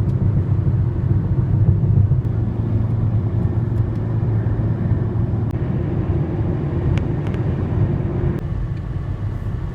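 Car driving at road speed: a steady low rumble of engine and tyre noise, which eases slightly about eight seconds in.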